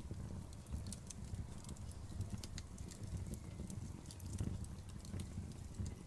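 Campfire burning: a low, steady flutter of the flames with frequent small, irregular crackles and pops from the burning wood.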